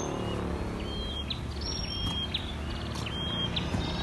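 Birds calling, with short high notes repeated every half second to a second, over a steady low background rumble.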